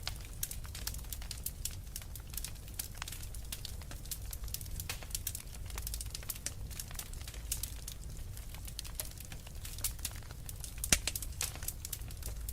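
Wood fire crackling, with dense small sharp pops and one louder pop near the end, over a steady low rumble.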